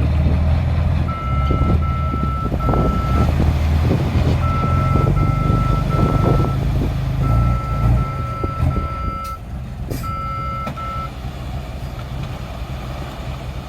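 A dump truck's reversing alarm beeping in quick groups of three, over the steady running of its engine. The beeping stops about eleven seconds in, and the engine runs on a little quieter.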